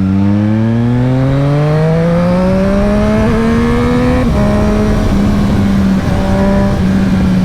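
2020 Triumph Street Triple RS's 765 cc three-cylinder engine through a LeoVince LV One EVO slip-on exhaust, pulling up through the revs under acceleration for about four seconds. After a brief break it runs on at a steadier pitch.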